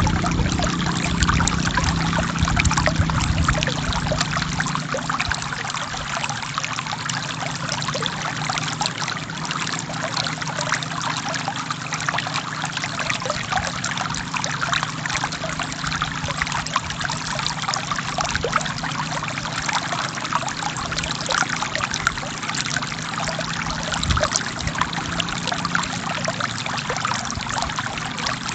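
Forest stream flowing and splashing steadily over rocks, a continuous rushing trickle; a low rumble beneath it fades after the first few seconds.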